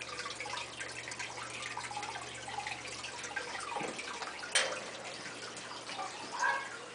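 Water trickling and splashing steadily in a turtle tank, with fine drips and ticks, as from a filter return pouring into the water.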